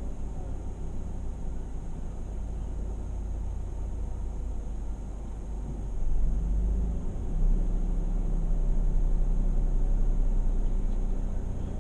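Car engine idling, heard from inside the cabin as a steady low rumble. About six seconds in the rumble grows louder and stays louder.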